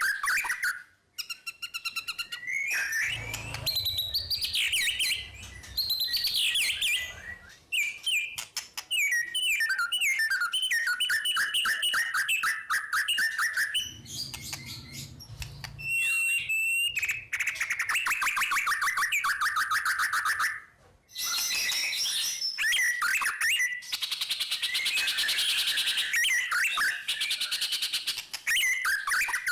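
White-rumped shama (murai batu) singing a long, almost unbroken rolling song: fast trills and rattles mixed with clear whistled notes, with only a few brief pauses.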